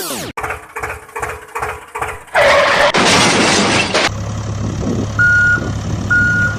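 A loud crashing burst lasting about two seconds, then a heavy truck's engine running low with a reversing alarm beeping about once a second, starting near the end.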